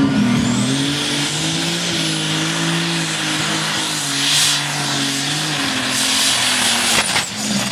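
Modified pulling tractor's engine running hard under load during a pull, with a high whine that climbs in the first second and holds. About seven seconds in there is a sharp crack, and the whine then falls away as the run ends.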